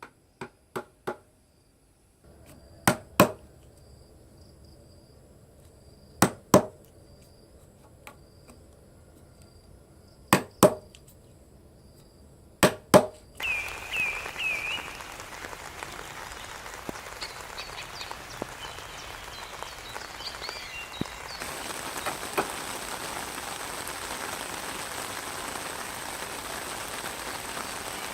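Sharp knocks, mostly in pairs and a few seconds apart, like a tool striking wood. Then steady rain with a few short high chirps, the rain growing heavier about eight seconds later.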